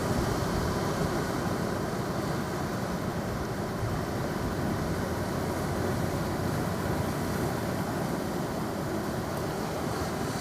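Ocean surf washing steadily, with a low rumble of wind on the microphone.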